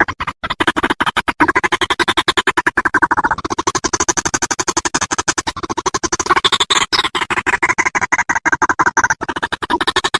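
White-breasted waterhen calling: a loud, unbroken run of rapid harsh pulses, more than ten a second, shifting a little in pitch as it goes.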